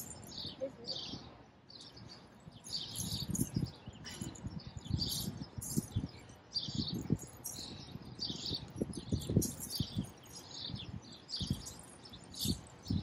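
Birds chirping, short high calls repeating every second or so, with scattered dull low thumps and rustles underneath.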